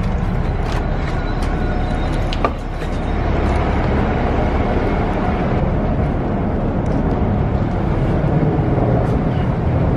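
Steady low rumble and road noise of a moving vehicle, with a few faint clicks.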